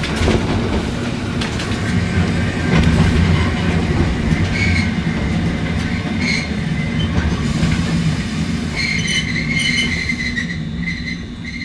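Randen tram car running on the Kitano line with a steady low rumble. Its wheels give short high squeals, then a longer stretch of squealing near the end as the sound fades.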